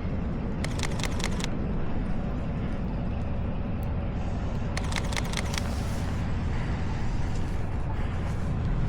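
Camera shutter firing in two rapid bursts of about half a dozen clicks each, one about a second in and one about five seconds in, over a steady low rumble.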